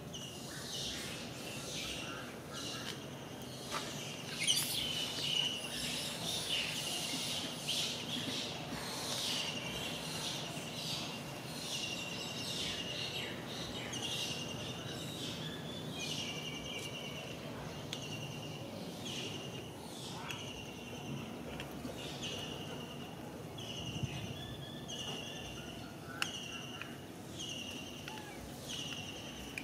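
Outdoor ambience with a bird repeating a short, high call about once a second. Scattered taps and rustles come in the first several seconds.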